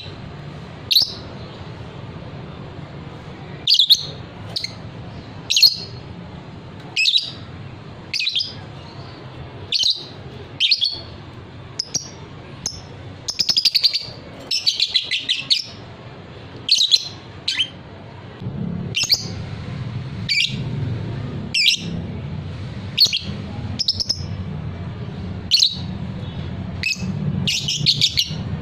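Lovebird calling: short, sharp high chirps about every second, breaking into a quick chattering run about halfway through and again near the end. A low steady hum lies underneath.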